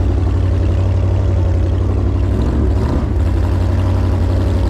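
Jet boat engine running steadily, with a brief rise and fall in pitch about two and a half seconds in.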